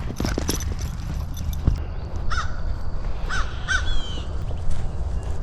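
Birds calling: a few short, harsh calls, one about two seconds in and two more between three and four seconds in, from small birds mobbing a larger bird.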